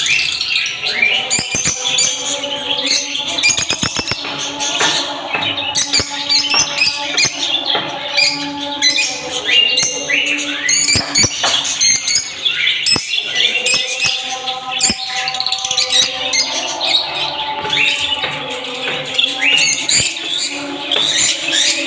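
Pet budgerigars chirping and chattering without pause, a dense flock-like warble of quick rising chirps. A fast run of clicks comes about four seconds in.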